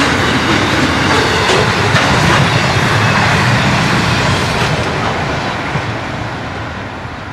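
Freight train wagons rolling past at speed, wheels clicking over the rail joints, the sound fading away over the last couple of seconds as the train draws off.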